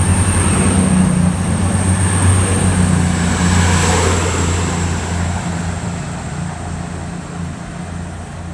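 Class 222 Meridian diesel multiple unit pulling out, its underfloor diesel engines running with a steady low hum over rail and wheel noise, fading away over the second half as it draws off.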